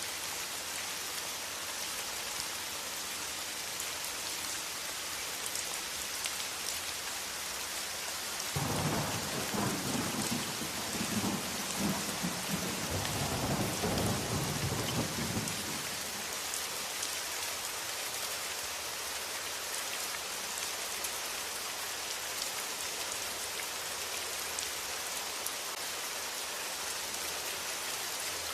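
Steady rain hissing, with a roll of thunder that breaks in about a third of the way through and rumbles for several seconds before fading back into the rain.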